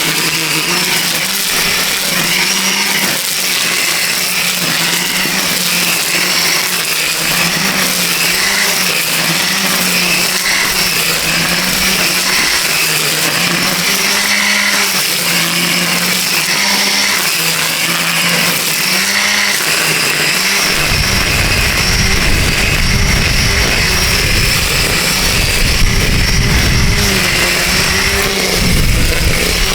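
Cordless brushless electric string trimmer running steadily while cutting grass, a high motor and line whine whose pitch wavers slightly as the load changes. About two-thirds of the way through a low rumble joins it.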